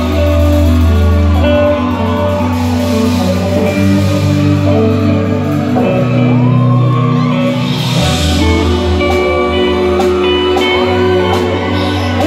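Loud live band music in a concert hall, with a deep sustained bass line and guitar.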